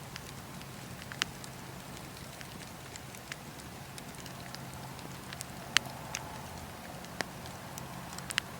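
Wood fire burning in a fireplace: a steady low hiss with scattered sharp crackles and pops, the loudest a few seconds apart.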